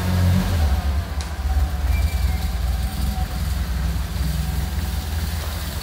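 Triumph Spitfire's freshly rebuilt four-cylinder engine running at low revs, a steady low rumble that eases slightly in the first half-second.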